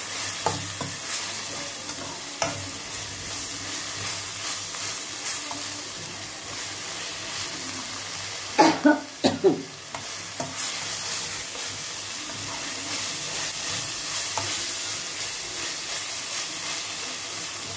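Sliced onions and green chilli–coriander paste sizzling in a stainless steel kadai, stirred and scraped with a steel spatula. A quick run of four loud knocks about halfway through.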